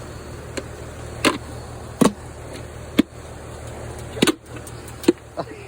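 A series of hard knocks, roughly one a second, over a steady low hum that drops out briefly about four seconds in.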